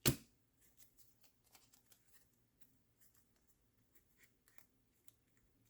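One sharp knock at the very start, then faint scattered ticks and rustles of small things being handled by hand.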